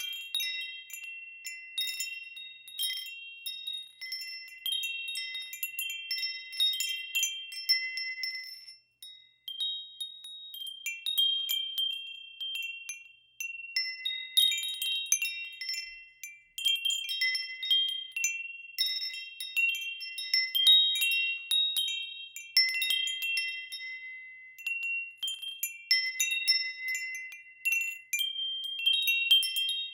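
Metal wind chimes ringing irregularly as they are blown, several high tones between about 2 and 4 kHz struck in clusters and left to ring out, with brief lulls about nine and thirteen seconds in.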